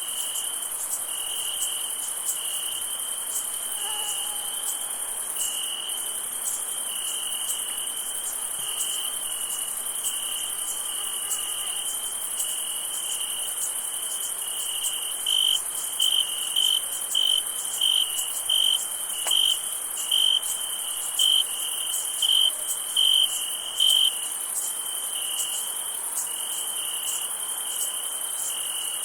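Night insect chorus: crickets trilling steadily with a high insect hiss above them. From about halfway through, one nearer cricket chirps louder in an even beat, a little over one chirp a second, then drops back into the chorus.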